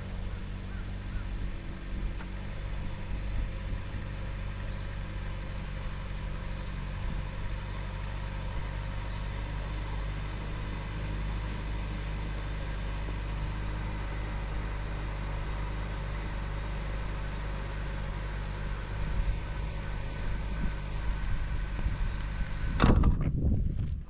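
An engine running steadily at idle, a low even hum. About a second before the end a louder, noisier sound cuts in.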